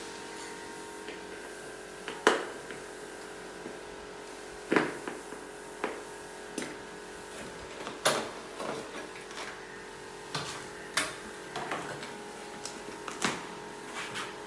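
Irregular sharp knocks and clatter, about a dozen of them, over a steady machine hum.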